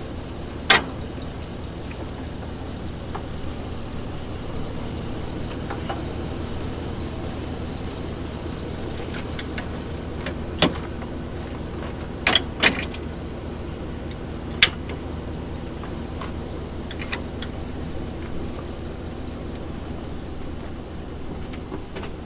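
Truck engine idling steadily, with five or so sharp clicks and knocks scattered through as a snowplow is hooked up to the truck.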